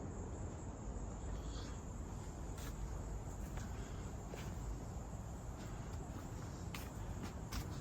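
Insects, such as crickets, giving a steady high-pitched shrill drone, with scattered light clicks and a low rumble underneath.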